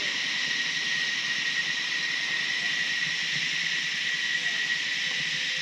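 Steady, high-pitched insect drone: an even hiss with one sustained whistle-like tone in it, unchanging throughout.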